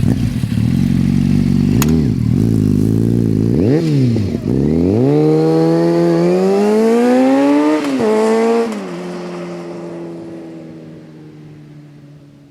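Kawasaki ZZR600 inline-four motorcycle engine revving in two quick blips, then pulling away with its pitch rising steadily. Near eight seconds the pitch drops on a gear change, rises briefly, then settles lower and fades.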